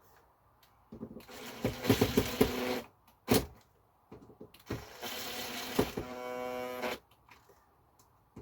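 Small screws being driven into the spa pump unit's plastic housing. There are two bursts of steady whirring, each about two seconds long, with a sharp click between them.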